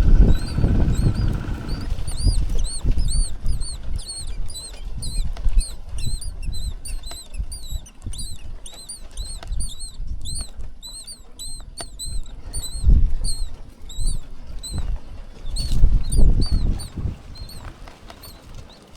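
Nestlings in the nest giving rapid, high, thin begging peeps, several a second, thinning out toward the end. Under them runs low rumbling with thumps, loudest at the start and again twice near the end.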